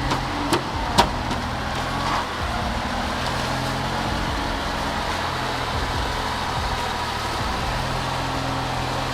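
A heavy vehicle's engine running steadily, with a few sharp knocks about half a second and one second in.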